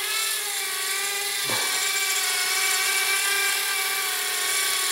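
Blade Inductrix Switch Air quadcopter in flight: its four tiny motors and ducted propellers make a steady high whine, the pitch wavering slightly and rising a little about two seconds in.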